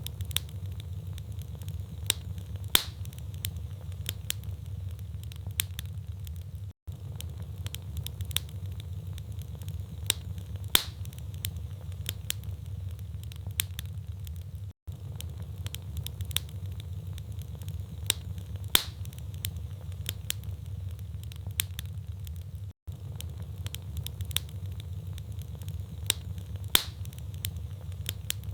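Wood fire in a fireplace crackling, with frequent sharp snaps and a few louder pops from the logs over a steady low rumble of flame. The same short recording loops about every eight seconds, with a brief dropout at each seam.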